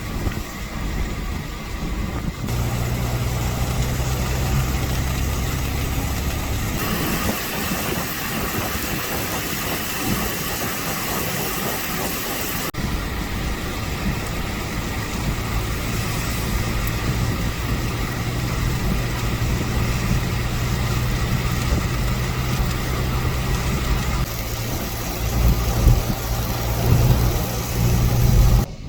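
A vehicle engine running with a low steady hum under a constant rushing noise. It changes abruptly several times as takes are cut together.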